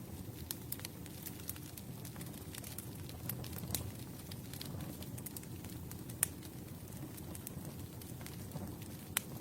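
Campfire burning: a steady low rumble of flames with scattered sharp crackles and pops from the burning wood, two louder pops about six seconds in and near the end.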